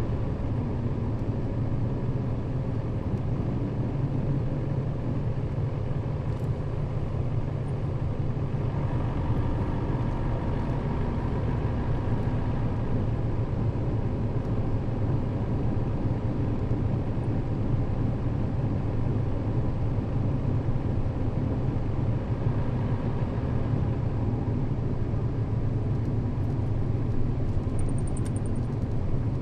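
Nissan Diesel KL-RA552RBN bus heard from inside the cabin, its diesel engine droning steadily with road noise while it cruises at a constant speed.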